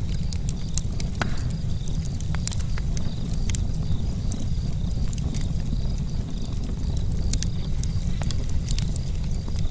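Charcoal campfire crackling, with many irregular sharp pops and ticks over a steady low rumble.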